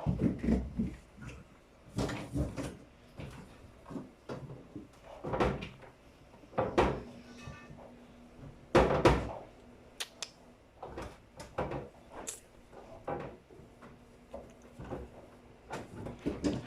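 Irregular knocks, clunks and clatters of refrigerator parts being handled during cleaning: drawers, shelves and doors moved, opened and shut, the loudest clunk about nine seconds in.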